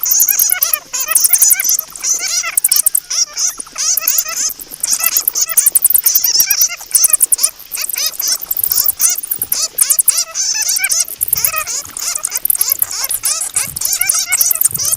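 Many bats squeaking and chattering at once, a dense run of short, overlapping high squeaks over fast, thin ticking.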